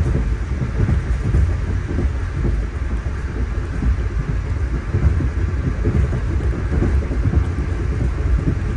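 Steady low rumble of a moving Amtrak Amfleet I passenger coach, its wheels running over the rails, with no single knock standing out.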